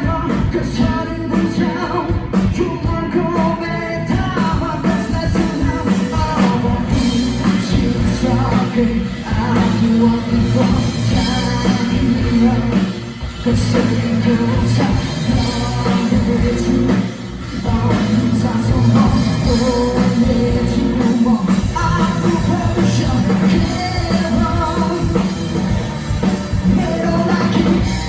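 Live rock band playing with a lead singer, drums and guitars, heard loud from the crowd.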